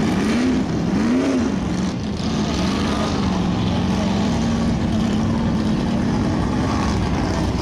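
Off-road mud truck's engine revving up and down twice in quick surges, then running at a nearly steady pitch.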